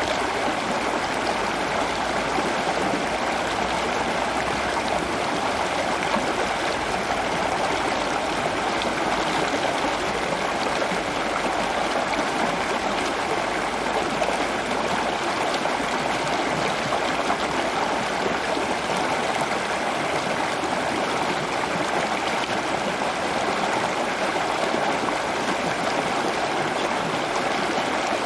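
Steady running water, an even rushing sound like a stream that holds constant throughout.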